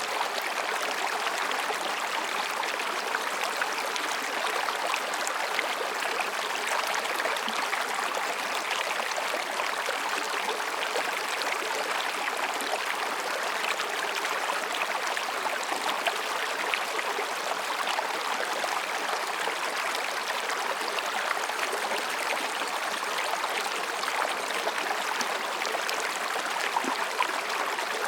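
Mountain stream babbling and splashing over rocks, a steady, unbroken rush of water.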